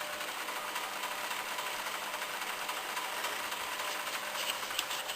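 A small motor running steadily with a rapid, even whirring rattle.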